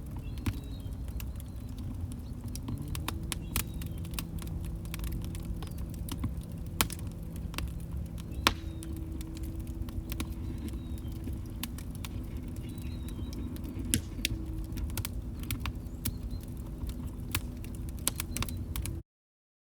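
Log fire crackling: a steady low rumble with many sharp snaps and pops, a few of them louder. The sound cuts off abruptly about a second before the end.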